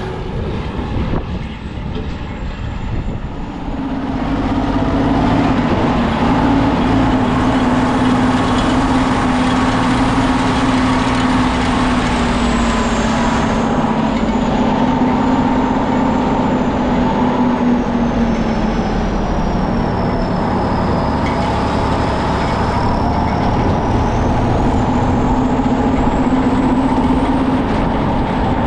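Large farm tractor's diesel engine running steadily, getting louder about four seconds in and then holding an even pitch that drifts slightly.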